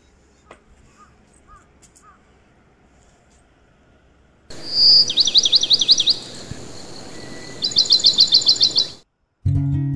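A songbird singing: one high whistled note, then a fast run of about ten down-slurred notes, and a second run like it a couple of seconds later, over a steady outdoor hiss. Before the song only a few faint chirps are heard; acoustic guitar music starts just at the end.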